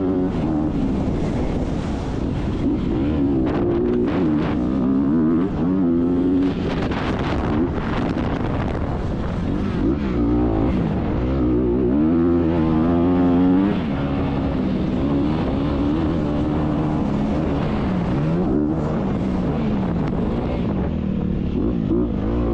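Motocross dirt bike engines racing, revving hard with the pitch repeatedly climbing and dropping as the throttle opens and closes through the gears.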